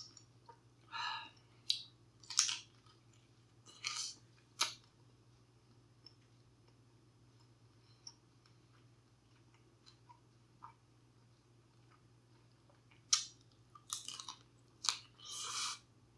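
A person chewing and biting food close to the microphone, in short wet bursts with a quiet pause of several seconds in the middle.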